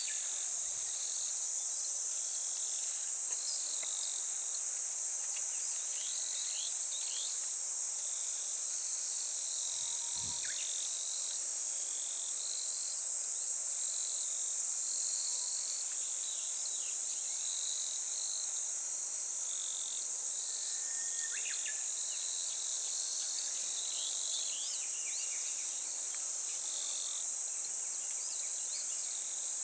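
Steady, high-pitched chorus of insects, with short bird chirps and quick falling calls scattered throughout.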